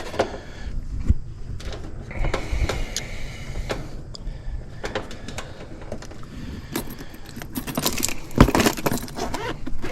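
Small metallic clicks, rattles and knocks of hands working over the wiring and parts inside an air conditioner's electrical cabinet, with a sharper knock near the end.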